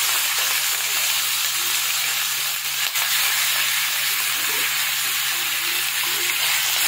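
Raw bone-in chicken pieces frying in hot mustard oil in a kadhai: a steady, dense sizzle, with a low steady hum underneath.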